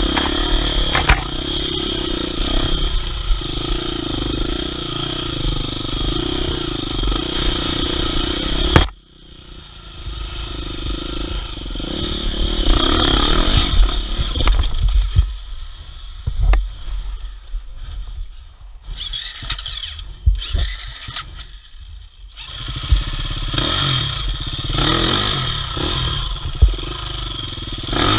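Off-road trail motorcycle engine running. The sound drops away suddenly about nine seconds in, then comes back uneven with scattered knocks before steadying again.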